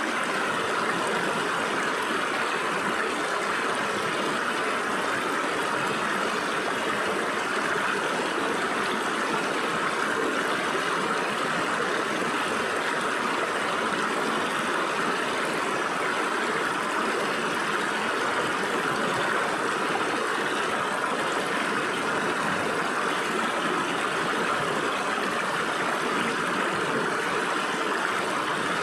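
Stream water rushing and splashing steadily between rocks.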